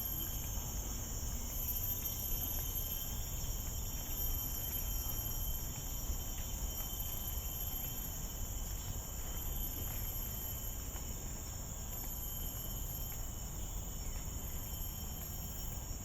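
Steady chorus of forest insects: several continuous high-pitched shrill tones layered together, over a low steady rumble.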